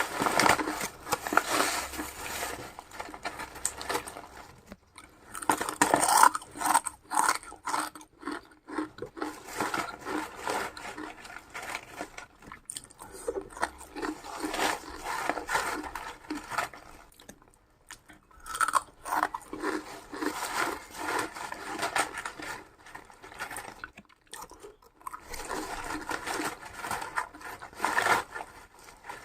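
A person biting and chewing crunchy food close to the microphone: rapid crunching chews in bursts of a few seconds, with short pauses between mouthfuls.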